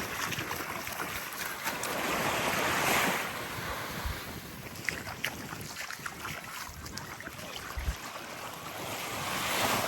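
Small waves lapping and washing up onto a sandy beach, swelling into a wash about three seconds in and again near the end, with light wind on the microphone.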